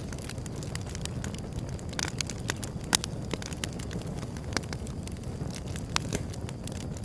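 Wood fire burning with a steady low rumble and irregular sharp crackles and pops, the loudest about three seconds in.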